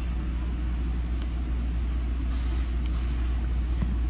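Steady low hum inside a New Jersey Transit commuter train coach.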